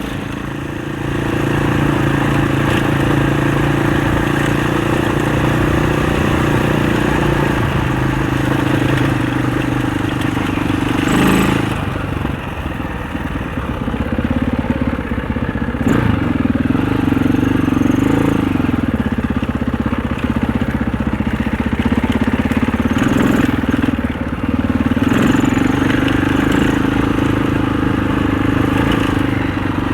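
Husaberg 650 four-stroke single-cylinder enduro dirt bike engine running under way, its pitch rising and falling with the throttle. Two sharp knocks come through, about eleven and sixteen seconds in.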